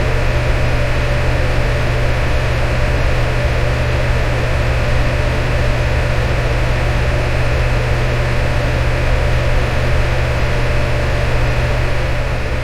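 Electric fan running steadily: a continuous airy rush over a low, even hum, with no change in speed.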